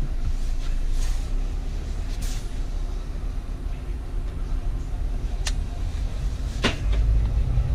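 Peugeot Partner running inside the cabin as it pulls away in drive, a steady low rumble. Two sharp clicks about five and a half and six and a half seconds in, the doors locking automatically as the car starts to move.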